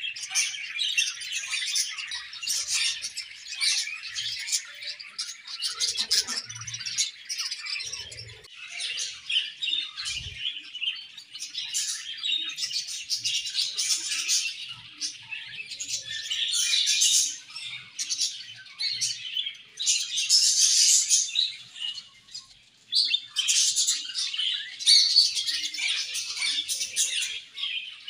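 A colony of budgerigars chattering and chirping together, a dense, continuous warbling of many birds at once, dipping briefly about three quarters of the way through.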